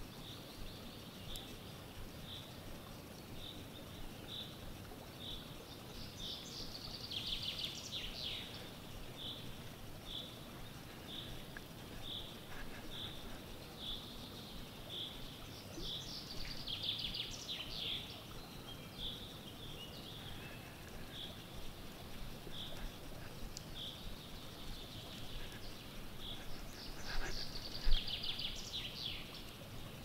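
Forest birdsong: one bird repeats a short, high note about once a second, while fuller, busier song phrases break in three times. Under it is a faint steady hush, and a single sharp knock comes near the end.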